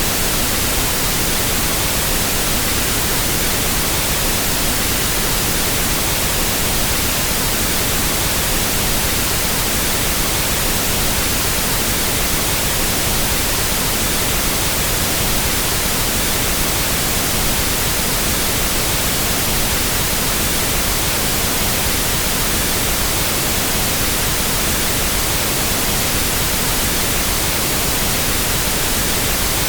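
Pink noise test signal for equalizing sound equipment: a steady, even hiss across the whole range of pitch, unchanging throughout.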